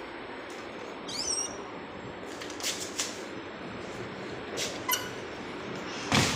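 A few short, high bird chirps over a steady background hiss, with scattered clicks and one louder knock near the end.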